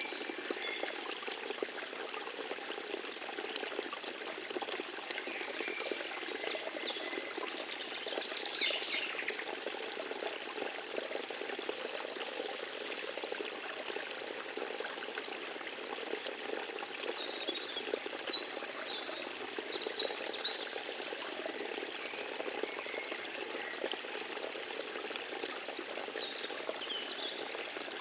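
A forest stream trickling steadily. Over it a songbird sings high, rapid phrases of repeated notes three times: briefly about eight seconds in, for several seconds a little past halfway, and again near the end.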